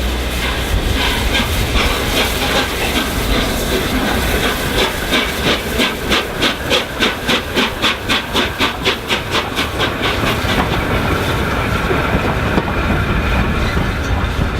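Peppercorn A1 Pacific steam locomotive 60163 Tornado passing with a train, its steam hissing steadily. A rapid, even run of beats, about four a second, grows in the middle, peaks and then dies away as it goes by.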